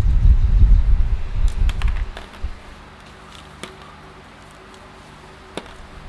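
Gusty low rumble of wind buffeting the microphone, dropping away about two seconds in, followed by a quieter stretch with a few scattered sharp clicks.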